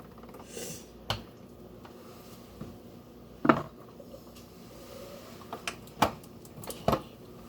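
A few scattered knocks and clinks of a utensil against a mixing bowl, the loudest about three and a half seconds in, with the mixer switched off.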